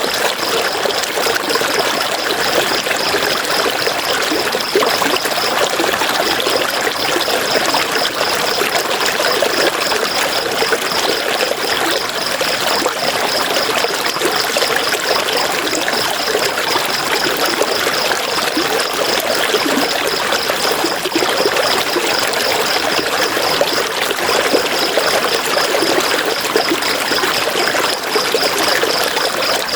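River water flowing in a steady, continuous rush. Over it runs a high, fast, evenly pulsing tone that drops out twice.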